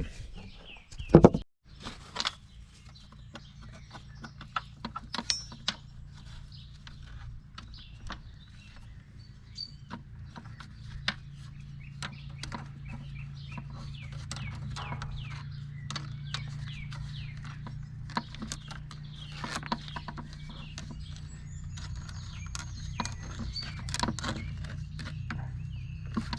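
Birds clucking and chirping in the background over a steady low hum, with scattered small clicks and knocks of hand work on metal. One loud knock comes about a second in.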